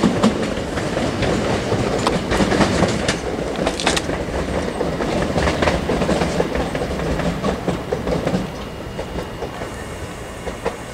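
Southeastern Class 375 Electrostar electric multiple unit running away over station pointwork, its wheels clacking in quick irregular knocks over rail joints and points. The sound drops and thins out about eight seconds in as the train draws away.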